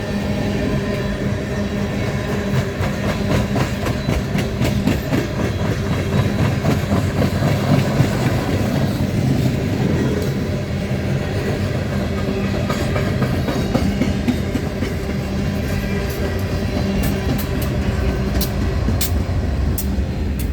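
Coal train cars rolling past: a continuous loud rumble, with steady low tones and the wheels clicking over the rails, the clicks sharper near the end.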